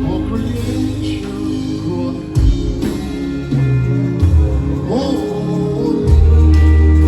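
Live gospel worship band playing a slow song with sustained bass and keyboard chords, with singing rising over it at moments.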